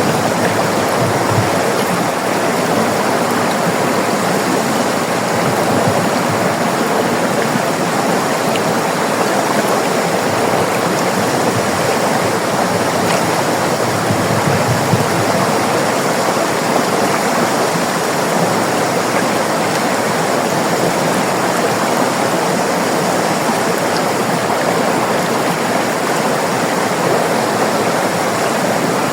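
River water flowing and rushing steadily, a continuous even splashing with no pauses or changes.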